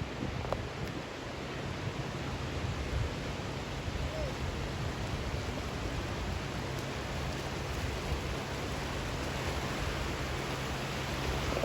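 Steady rushing noise of the surging water of a bono tidal bore, mixed with wind rumbling on the microphone.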